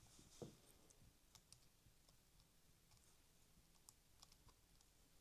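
Near silence with a few faint, scattered clicks from small parts and tools being handled on a workbench.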